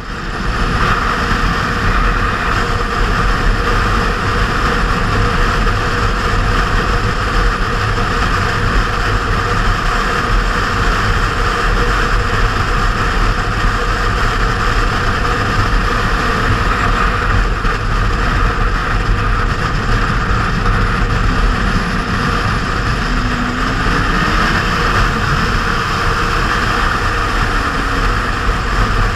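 Kawasaki Z750R's inline-four engine running steadily under way, with heavy, even wind rush over the camera. The sound rises quickly at the start, then holds level.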